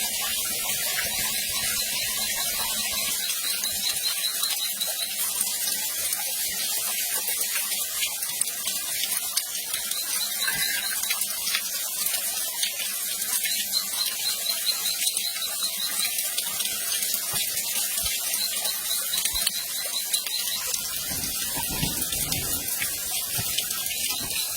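Steady hiss of rushing water from a waterfall, with short runs of rapid, high-pitched chirping recurring every few seconds.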